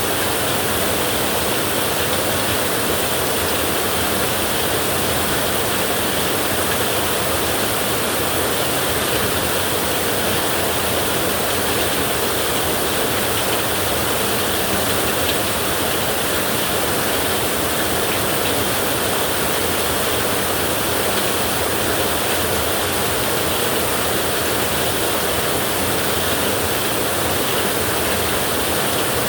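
Heavy rain falling steadily on a tin roof, an even hiss with no thunder.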